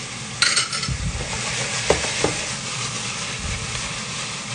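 Shrimp frying in oil in a stainless steel pan with chopped garlic and shallot, giving a steady sizzle. There is a brief clatter about half a second in and a couple of light knocks around two seconds.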